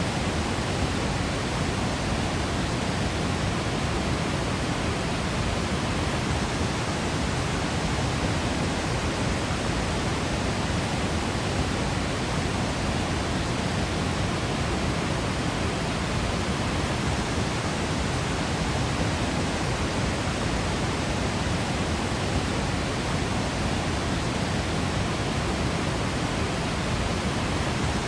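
Waterfall, a steady, even rush of falling water with no separate splashes or changes in level.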